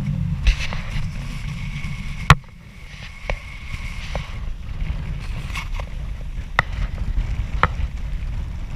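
Boat under way: a steady low rumble with several sharp knocks, the loudest a little after two seconds in, after which the rumble drops for a while.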